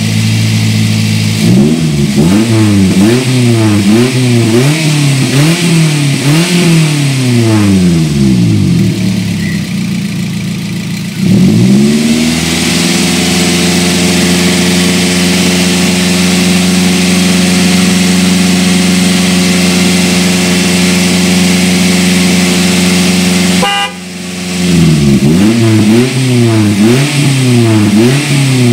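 Daihatsu Grand Max 1.5's four-cylinder engine revved up and down repeatedly, about once a second. It is then held at a steady raised speed for about ten seconds, and after a brief drop it is revved up and down again, warming toward the temperature where the radiator fan should switch on.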